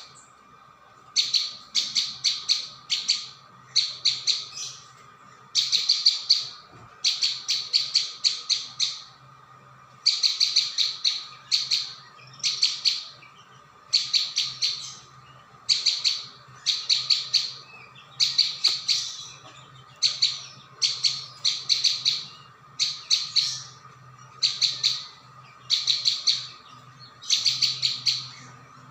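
Prinia (prenjak bawah, 'ciang-ciang') calling nonstop: short clusters of rapid high chirps, each about a second long, repeated roughly once a second, a bird-lure recording. A faint steady hum lies underneath.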